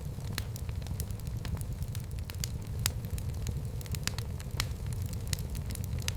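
Fireplace fire crackling: frequent sharp, irregular pops over a steady low rumble of the flames.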